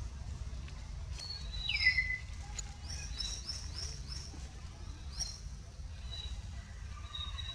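Birds chirping: short, high rising chirps repeated in quick runs, and one louder falling whistle about two seconds in, over a steady low rumble.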